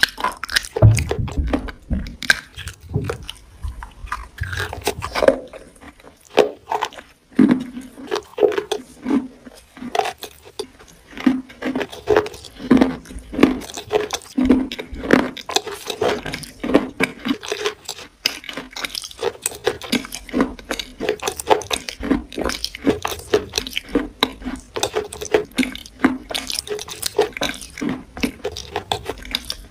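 A person chewing something wet and crunchy, a steady run of crisp clicks and wet smacks from the mouth.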